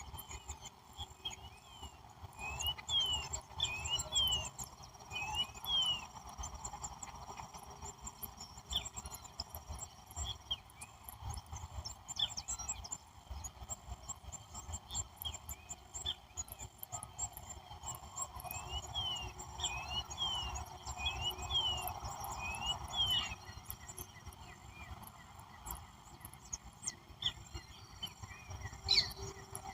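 Small birds calling in a natural outdoor soundscape: quick clusters of short, repeated chirps, once early and again about two-thirds of the way through. A steady high-pitched hum and a low rumble run underneath.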